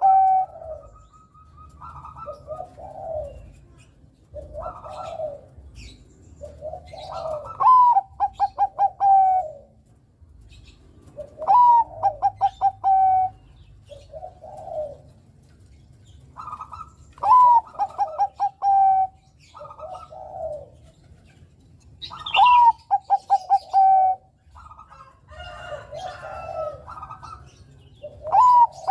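Bangkok-bred zebra dove (perkutut) singing its cooing song over and over, about every five seconds. Each phrase is a quick run of clipped notes that ends on a held coo, with softer coos in between and faint higher chirps.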